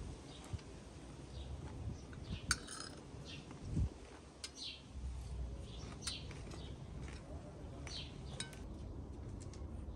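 Small birds chirping in short, repeated calls scattered throughout, over a steady low background rumble, with a few sharp clicks and a low thump.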